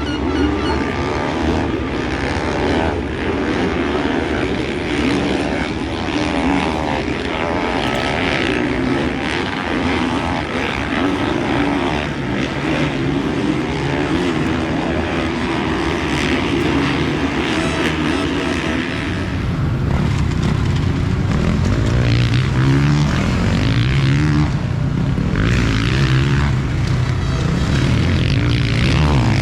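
Motocross bikes racing on the track, several engines revving and running at once. About two-thirds of the way in, a deeper engine drone grows louder and holds.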